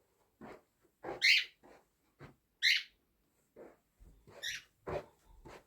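Cockatiel giving loud, shrill contact calls, three of them a second or so apart, with softer, lower sounds between. These are the calls it uses to summon its family to it.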